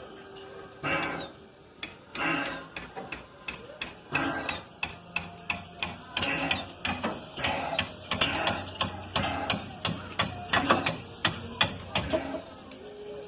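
Narrow-gauge train cars rolling past, their wheels clacking and knocking over the rail joints in a run of sharp knocks that comes thicker and faster from about halfway through.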